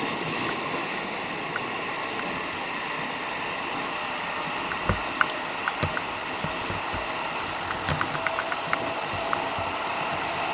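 Steady running noise of an electric commuter train heard from inside the car: an even rushing hiss and rumble. Scattered sharp clicks and knocks come about five seconds in and again around eight to nine seconds.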